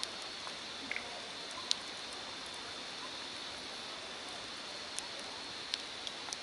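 Night-time nature ambience in steady rain: an even hiss of rain with a constant high-pitched chirring of insects over it. A few scattered sharp ticks of drops fall on the tent, the loudest about a second and a half in.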